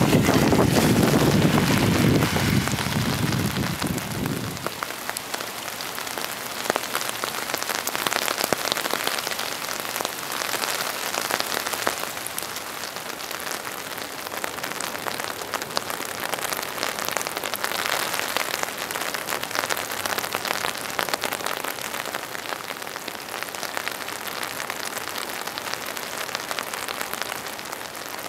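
Steady rain falling, a continuous hiss dotted with many small drop ticks. A low rumble, the loudest part, fades out about four seconds in.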